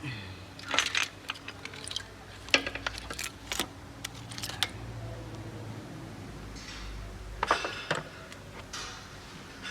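Metal clinks, clicks and rattles of hand tools and engine parts being handled while the intake camshaft is taken off the cylinder head, with a few louder scraping clatters about a second in, midway and near the end.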